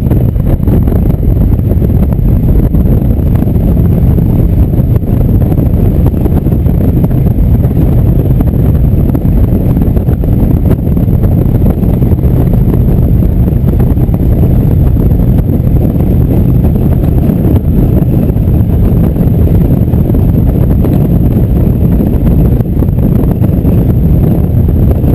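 Motorcycle cruising at a steady speed: a low engine drone mixed with wind rush on the microphone, loud and unchanging.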